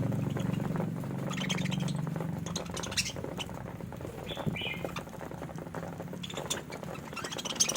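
Budgerigars chirping and chattering in short high bursts, with scattered sharp clicks. A low hum fades over the first few seconds.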